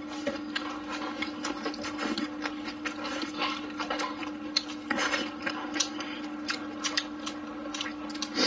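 Close-up eating sounds: gnawing, sucking and chewing on a braised pork trotter, with many short wet smacks and clicks of the mouth.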